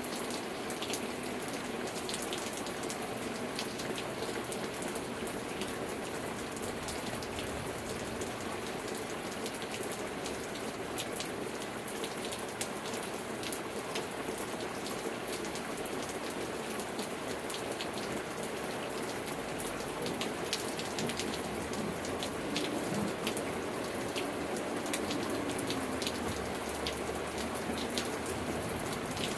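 Steady heavy rain, with a dense patter of drops striking a surface.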